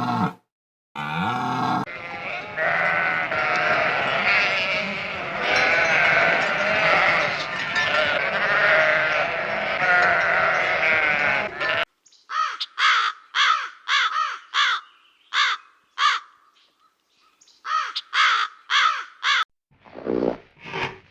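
Many sheep bleating at once in a dense, overlapping chorus that cuts off abruptly about twelve seconds in. It is followed by short, separate bleats in quick runs of several.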